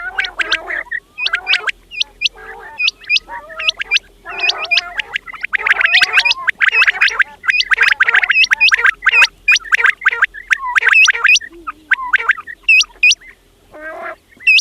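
Several quails calling without a break: sharp, high, hooked notes, mostly in twos and threes, over a lower chattering. The calls thin out for a couple of seconds late on, then start again.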